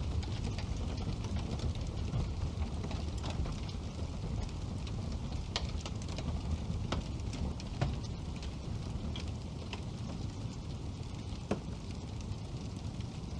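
Wood burning in a fireplace: a steady low noise of flames with irregular crackles and pops, a handful of them sharper snaps.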